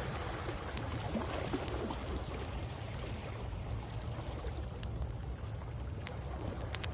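Waves washing onto the shore, one wash swelling over the first few seconds and then fading, over a steady low rumble. Scattered sharp pops of a crackling bonfire.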